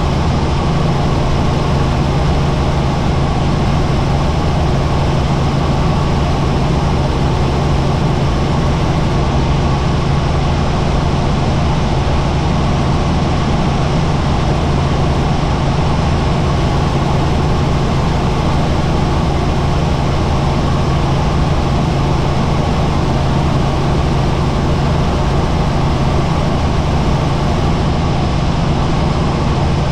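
Helicopter engine and rotor running steadily, heard inside the cabin as a loud, unbroken drone with a strong low hum.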